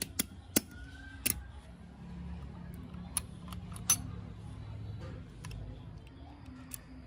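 A few sharp, separate clicks and taps, with the loudest about half a second in and near four seconds, from small parts and tools being handled during work on a model car. A low hum runs underneath.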